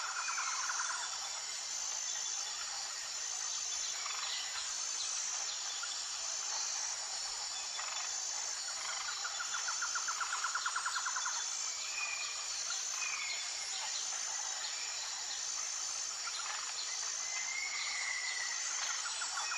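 Outdoor dawn chorus ambience: birds giving short call notes over a steady high chirring of insects that pulses evenly, with a rapid trill rising for a couple of seconds about halfway through.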